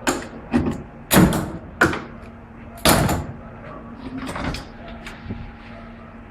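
A series of sharp knocks and clatters, about six over four or five seconds, the later ones softer, over a faint steady hum.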